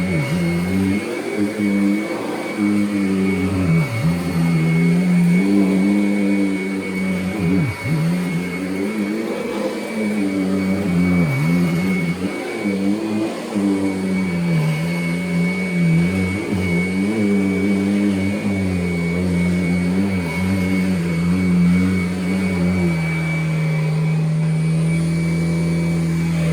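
2017 Kirby Avalir upright vacuum cleaner running, its motor hum wavering up and down in pitch with a steady high whine above it; near the end the hum settles to an even pitch.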